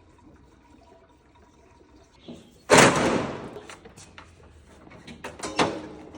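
Old John Deere lawn mower engine being cranked in two short tries, the first about a second and a half long and the second shorter, with clicks between; it turns over but does not start.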